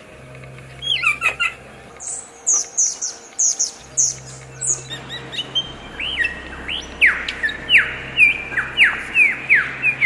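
Birds calling: a quick cluster of chirps, then a run of short high-pitched notes, then a string of downward-sliding calls, about two a second.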